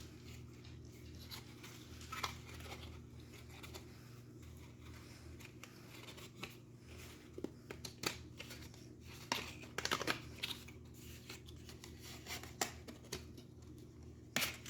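Old cardboard boxes and small plastic HO scale model train cars being handled: scattered light clicks, taps and rustles over a steady low hum.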